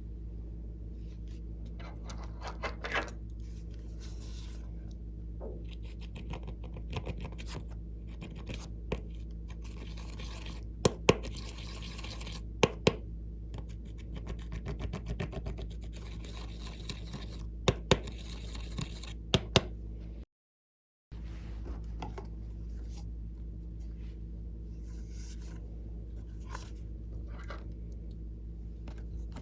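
Slime being squished and stretched by hand: sticky crackling and clicking, with a few sharp pops in the middle stretch, over a steady low background hum.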